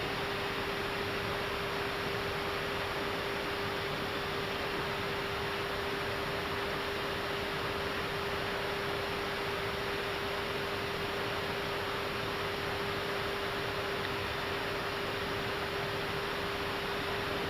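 Airbus A319 cockpit ambience in flight: a steady rush of airflow noise with a constant electrical hum running under it.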